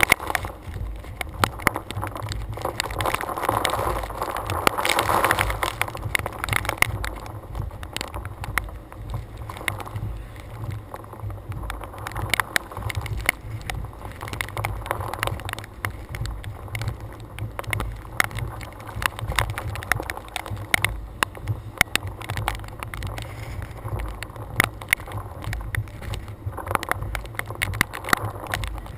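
Storm wind buffeting a hood-mounted GoPro, a steady low rumble that swells about three to six seconds in, with many sharp ticks throughout like rain hitting the camera housing.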